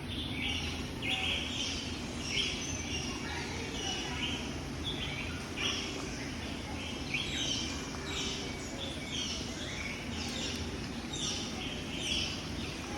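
Many small birds chirping at once, a dense overlapping chorus of short high chirps, over a steady low background rumble.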